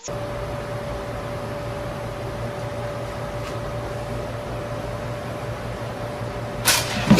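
Steady electrical kitchen-appliance hum with a thin steady tone over it, then a sudden loud snap near the end, which fits the four-slice toaster popping up.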